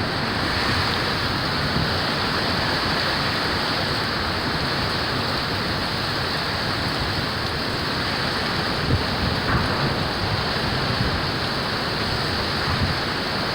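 Hurricane rain and wind: a steady, even rush of heavy rain, without the gusts buffeting the microphone.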